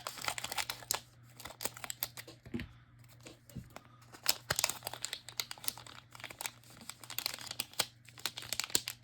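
Trading card pack wrapper crinkling and tearing as it is handled and ripped open, with many irregular sharp crackles.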